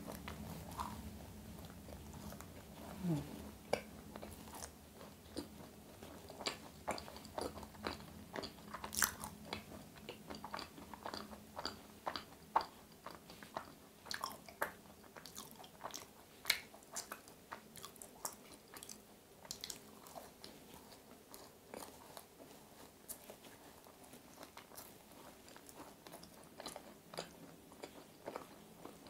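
Close-up biting and chewing of a thick-filled macaron, with many small, sharp, irregular mouth clicks.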